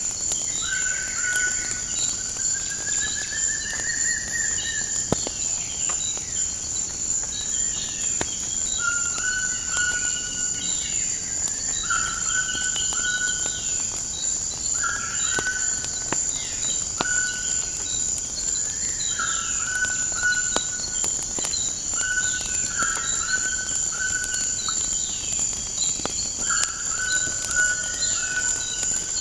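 Wood fire crackling in scattered sharp snaps over a nature backdrop: a steady high-pitched trill, with short bird calls repeating every second or two.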